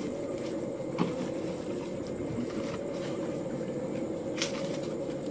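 Steady low background rumble with two faint clicks, one about a second in and one near the end.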